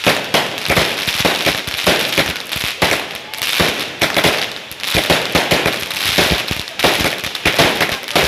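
Aerial fireworks bursting in rapid succession: a dense, irregular run of sharp bangs with crackling between them.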